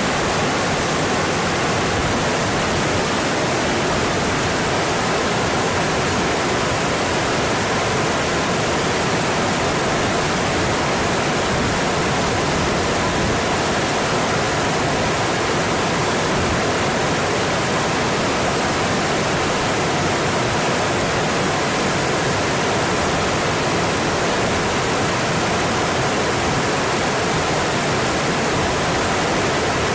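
A mountain stream rushing steadily over its bed: continuous, even water noise with no breaks or changes.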